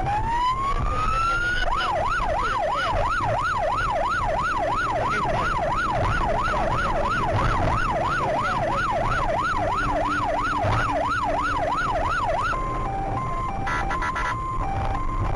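Police car siren: a slow wail rising for about a second and a half, then a fast yelp sweeping up and down about three times a second, switching near the end to a stepped two-tone hi-lo. Road and engine noise runs underneath.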